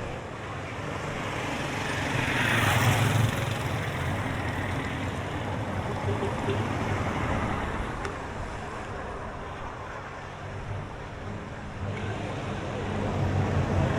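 Street traffic: vehicle engines over a steady hum of road noise, with one vehicle passing close about two to three seconds in and another engine growing louder near the end.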